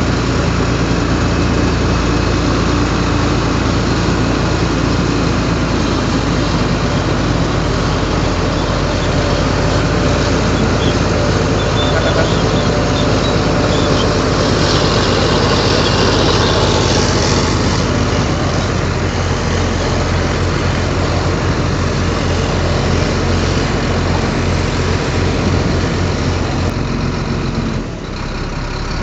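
Heavy diesel engine of a Komatsu D58 bulldozer running steadily, with a pulsing low rumble in the second half. A hissing rise comes briefly about halfway through, and the sound dips for a moment near the end.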